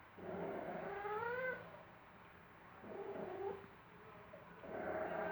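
Young female cat in heat yowling: three drawn-out calls that rise in pitch, the middle one shorter, the last starting near the end.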